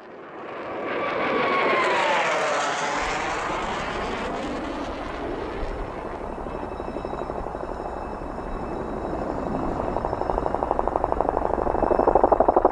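CH-47 Chinook tandem-rotor helicopter flying, fading in with a sweeping, phasing whoosh, then a steady rotor and engine noise whose rapid blade beat grows louder toward the end.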